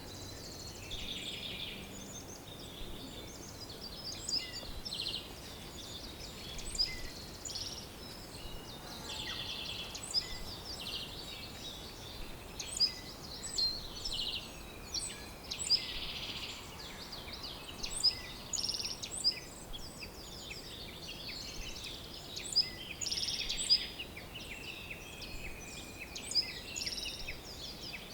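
Several songbirds calling at once: a steady chorus of high chirps, trills and short whistles, with frequent sharp, louder chirps standing out.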